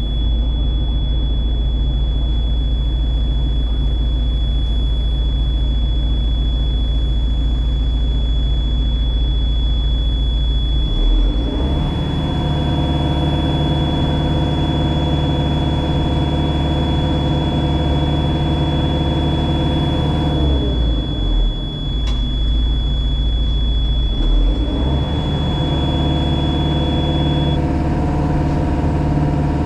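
Diesel engine of a JCB Pothole Pro heard from inside the cab, running at a steady low speed. About eleven seconds in it revs up and holds for around eight seconds, drops back, then revs up again near the end, as it takes up hydraulic work. A thin steady high whine runs alongside and stops shortly before the end.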